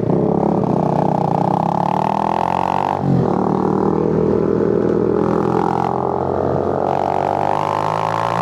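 Suzuki GN125 single-cylinder four-stroke engine pulling under acceleration while riding. The engine note rises steadily, breaks briefly for a gear change about three seconds in, then climbs again.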